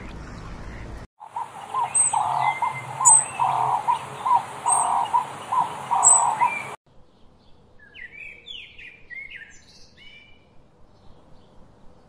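Birds calling. From about a second in, repeated calls come about two a second, with sharp high chirps over them; they cut off suddenly a little past halfway. Fainter, quick high chirps follow.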